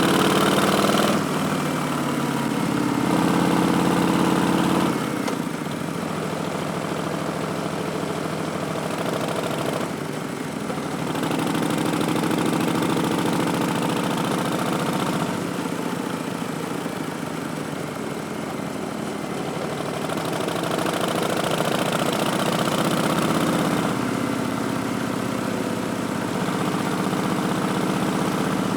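Harley-Davidson Street Bob's Milwaukee-Eight 107 V-twin, breathing through Vance & Hines Twin Slash slip-on mufflers and an Arlen Ness Big Sucker air cleaner, running under way. Its exhaust note swells and falls back several times as the throttle is opened and rolled off.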